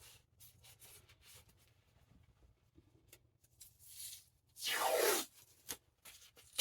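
Faint handling rustles and small clicks, then a short rasping rip about five seconds in, like tape being pulled off a roll to bind a book's spine tight.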